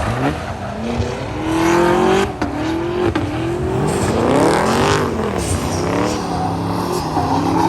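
Car engines revving hard, the pitch climbing and dropping again several times.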